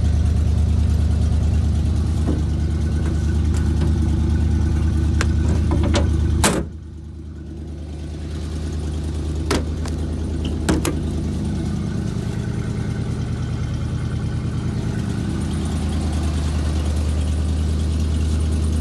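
A 1988 Chevy R30's 350 V8 running at a fast idle on a cold start. About six and a half seconds in a sharp knock comes, and the engine sound turns suddenly quieter and muffled, then slowly grows back. Two lighter clicks follow a few seconds later.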